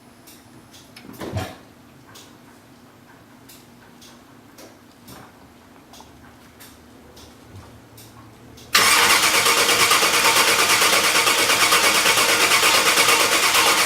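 A few small clicks and a knock, then, about two-thirds of the way in, the starter motor suddenly begins cranking the engine: loud and steady with a fast even pulse. The engine does not fire, a sign that fuel is not yet reaching it, which he puts down to air in the fuel line.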